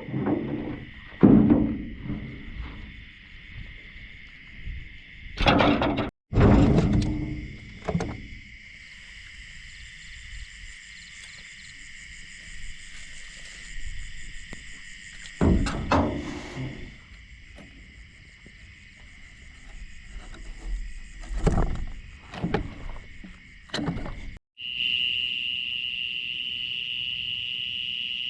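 Night insects such as crickets chirring steadily, broken by a few short knocks and splashes from a small paddled boat on the water. The sound drops out briefly twice, and after the second break only the insect chorus is heard, louder.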